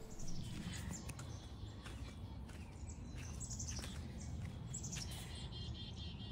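Several songbirds chirping and singing in short high notes, some repeated quickly, over a steady low outdoor rumble.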